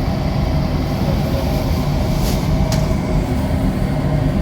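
Motorcycle engine running steadily, a loud low rumble with a faint hum, and a couple of light clicks about halfway through.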